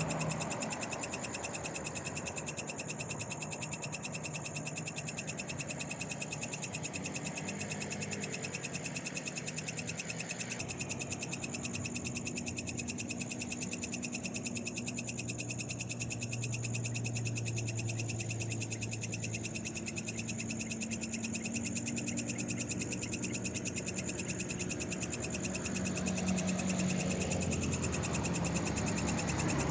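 Night chorus of frogs and insects calling together, with steady high-pitched insect trilling over fast pulsing calls.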